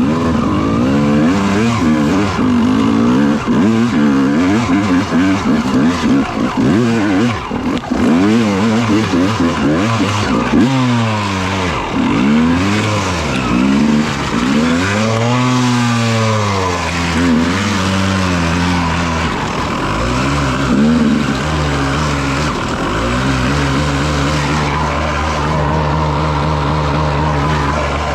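Dirt bike engine revving up and down over and over under changing throttle, with a steadier, lower-revving stretch in the last third.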